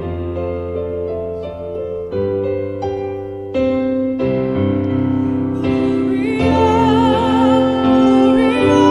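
Piano playing a slow passage of separate notes; about six seconds in, sustained notes with a wavering vibrato come in over held lower notes and the music grows louder, most likely the singer's voice entering.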